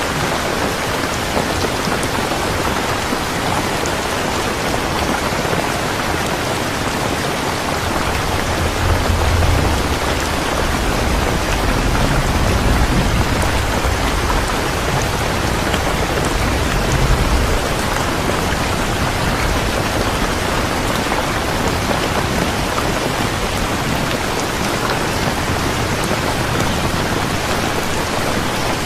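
Steady heavy rain, a dense even hiss of falling drops. A low rumble of thunder swells and fades for about ten seconds from roughly a quarter of the way in.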